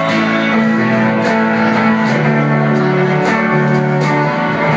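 Live band music with no vocals, led by plucked strings and guitar over a steady beat.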